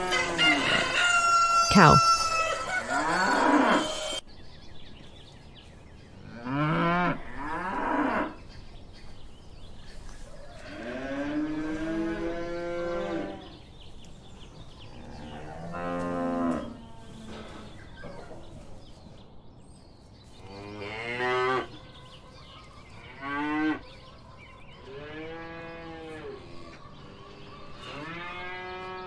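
Cows mooing over and over, about eight long lowing calls a few seconds apart.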